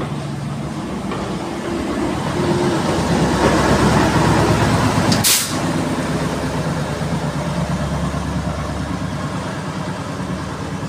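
Heritage passenger train pulling out, its coaches rolling past on the rails, with a Class 03 diesel shunter at the tail running its engine as it goes by, loudest about four seconds in. A brief sharp hiss about five seconds in.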